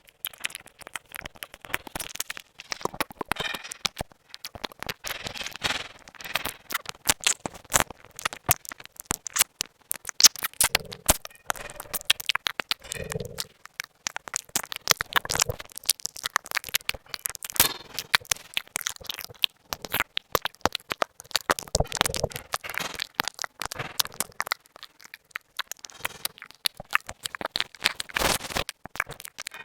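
Rapid, irregular sharp clicking and crackling, many clicks a second. A short low hum comes in about thirteen seconds in.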